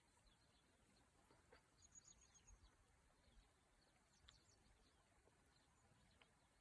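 Faint birdsong over a near-silent background: scattered short chirps and falling calls, with a quick run of about five high notes about two seconds in.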